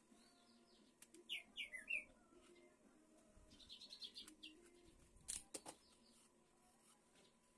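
Faint bird chirps: a few quick gliding calls, then a rapid run of short high notes about four seconds in. A sharp knock on the workbench comes about five seconds in.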